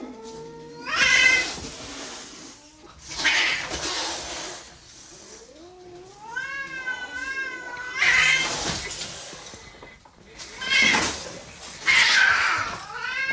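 Cats yowling and caterwauling: a string of short, harsh cries and one long, wavering cry near the middle, from a recorded sound-effects disc.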